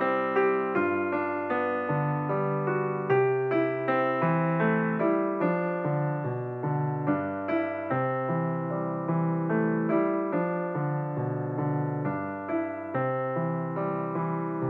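Background piano music: a steady run of struck notes and chords, each fading after it is played.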